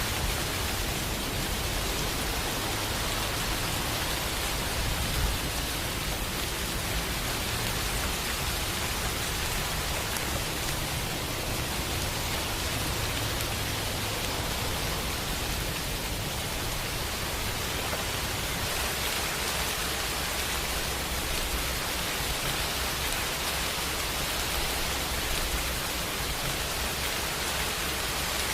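Steady, unbroken rainfall: a dense, even hiss of rain.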